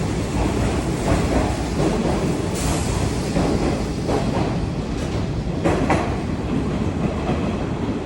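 Kintetsu rapid express train running on the rails: a steady rumble with scattered wheel clacks over rail joints, and a brief hiss about two and a half seconds in.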